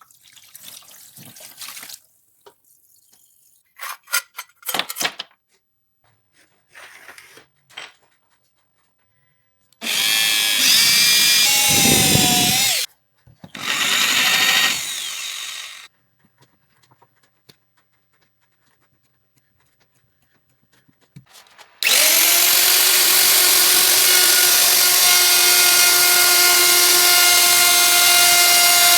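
An electric power tool motor running in short edited stretches. There are two brief runs, one dropping in pitch as it stops, then a long steady run with a constant whine through the last third.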